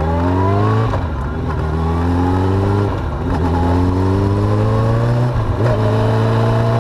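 Suzuki GSX750F inline-four motorcycle engine accelerating through the gears. Its pitch climbs, drops at upshifts about a second in, about three seconds in and near five and a half seconds, then climbs again, over a steady low drone.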